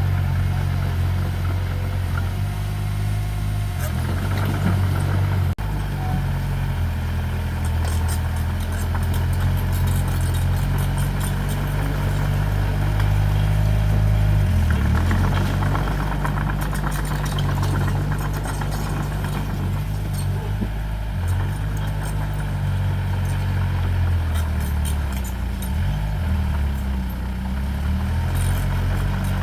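Diesel engine of heavy earthmoving equipment running, its pitch dropping and rising a couple of times as the revs change, with scattered light clatter over it.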